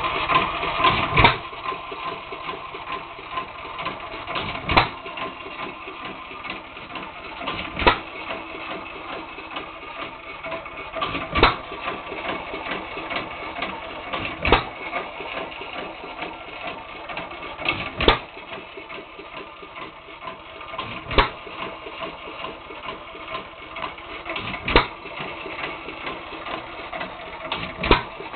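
Early-1900s Hercules hit-and-miss engine running: one sharp firing stroke about every three seconds, with a steady rapid clatter between them as the engine coasts on its flywheels without firing.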